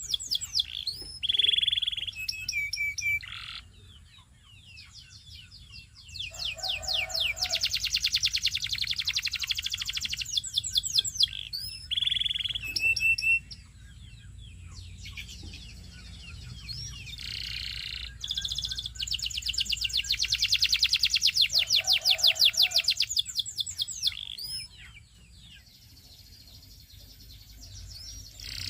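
Belgian singing canary in song: fast trills and sharp chirps strung into long phrases, in two main bursts of song with quieter pauses between.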